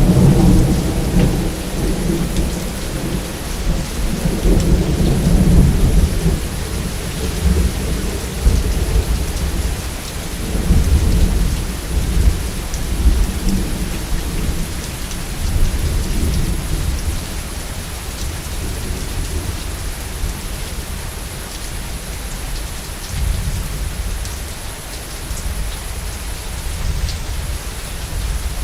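Steady heavy rain with rolling thunder. A deep rumble of thunder starts right at the beginning and rolls on for about six seconds, further rumbles come around ten to sixteen seconds in, and the thunder is weaker after that while the rain keeps falling.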